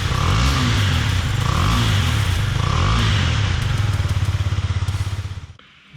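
Husqvarna 250 motorcycle's single-cylinder four-stroke engine revved in repeated blips, its pitch rising and falling about once a second. It then settles to an even, pulsing idle and fades out near the end.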